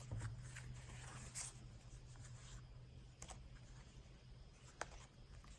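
Faint rustling of paper with a few light clicks as journal pages, pocket tags and envelopes are handled.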